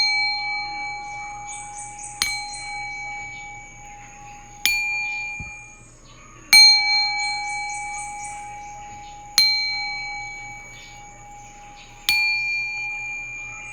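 A small singing bowl struck about every two to three seconds, six times in all. Each strike rings on with a bright, clear tone that slowly fades.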